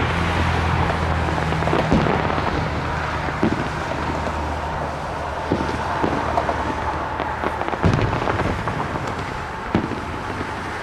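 Fireworks exploding, with sharp bangs going off at irregular intervals over a steady background rumble. A steady low drone sounds through most of the stretch and stops about eight seconds in.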